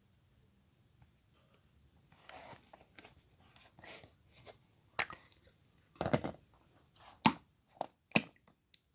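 Two-tone slime being squeezed and stretched by hand: a soft squishing rustle, then several sharp pops and clicks in the second half as air pockets in the slime burst.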